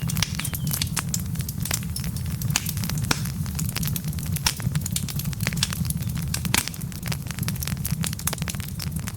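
Wood fire of burning logs crackling, with frequent irregular sharp pops and snaps over a steady low rumble.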